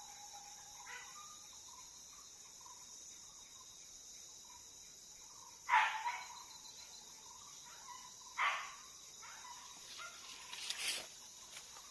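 Steady high-pitched drone of forest insects such as crickets or cicadas, broken by three short, louder sounds about six, eight and a half, and eleven seconds in.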